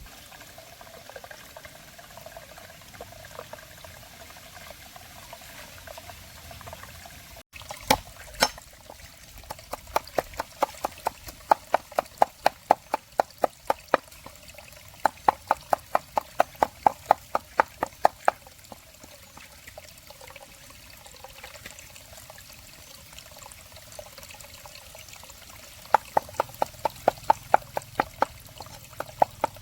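Rapid, evenly spaced sharp knocks, about three or four a second, in two long runs, over a steady wash of running water.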